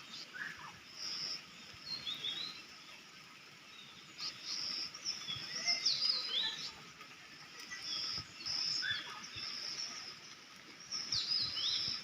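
Several birds chirping and calling, with short high notes and quick downward-sweeping whistles that come in clusters throughout, over a steady outdoor hiss.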